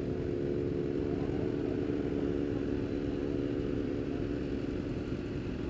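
Motorcycle engine running steadily at a constant speed, its even drone holding without revving up or down.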